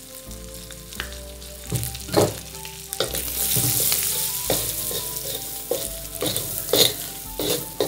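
Goat meat with shallots and garlic frying in a steel wok, sizzling steadily, while a wooden spatula stirs it in with repeated scrapes and knocks against the pan.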